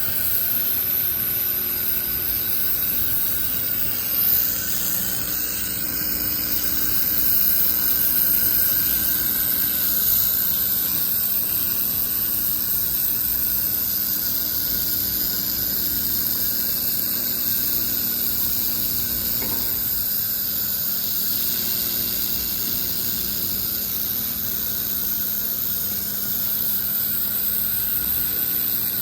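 Laser welding machine running as it welds an exhaust pipe: a steady hiss with a constant high-pitched whine, swelling briefly louder about four seconds in and again around ten seconds.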